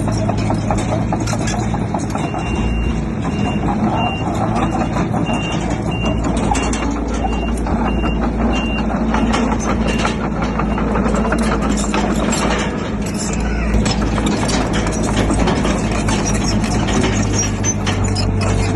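Bulldozer's diesel engine running steadily under load, with scattered clanks. A reversing alarm beeps at a steady pace from about two seconds in until about halfway through.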